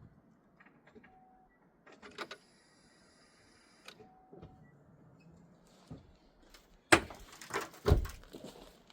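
A few light clicks and two short electronic beeps, a steady high-pitched tone for about a second and a half near the middle, then several loud knocks near the end.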